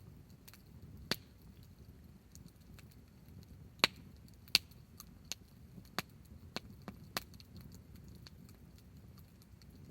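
Wood fire crackling with irregular sharp pops, two of them loud about four seconds in, over a faint low rumble of the burning fire.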